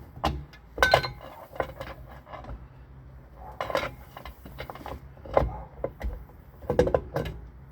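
Hand tools and metal parts clinking and knocking while the drive shaft is worked loose: a handful of separate sharp knocks spaced a second or more apart, over a steady low hum.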